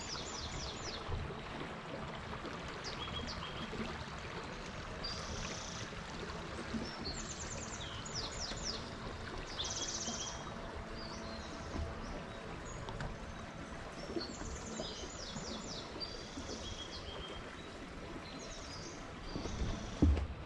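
Birds singing in short, quick high-pitched phrases repeated every second or two over a steady rushing background noise. A few dull thumps come near the end.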